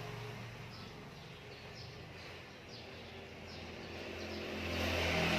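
A low, steady motor hum that swells louder near the end, with short, high chirps of birds repeating over it.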